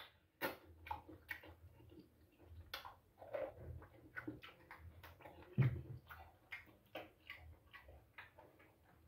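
A person eating with his hands close to the microphone: faint, irregular mouth clicks and lip smacks of chewing, with one louder knock about five and a half seconds in.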